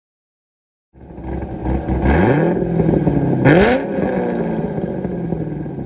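Cammed LS1 V8 of a 1998 C5 Corvette with long-tube headers, revving up about two seconds in and again in a quick blip around three and a half seconds, then settling to an idle that slowly drops in pitch.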